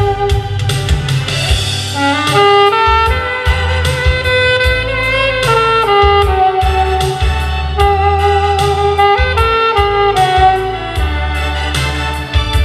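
Saxophone playing a slow, sustained melody over a backing track with bass and drums.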